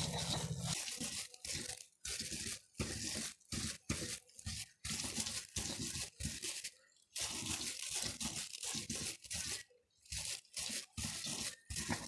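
Stone pestle grinding and crushing chillies with salt in a stone mortar (Indonesian cobek and ulekan), in repeated gritty scraping strokes about two a second with brief pauses between them. The chillies are being ground only coarsely for sambal.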